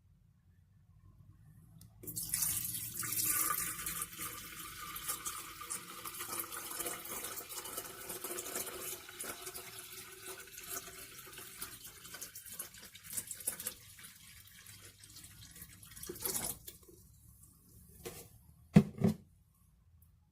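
Water running into a vessel for about fourteen seconds, then stopping. Near the end come two sharp knocks about a third of a second apart, the loudest sounds here.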